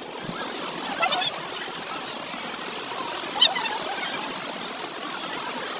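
Steady rush of a waterfall, with two short high-pitched cries, one about a second in and one about three and a half seconds in.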